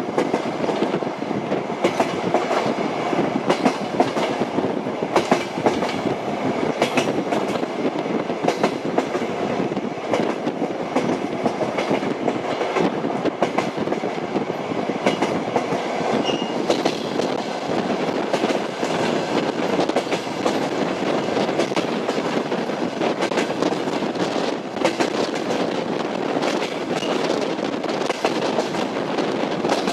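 Train wheels clacking over rail joints, a continuous run of sharp clicks over the steady rumble of a moving train.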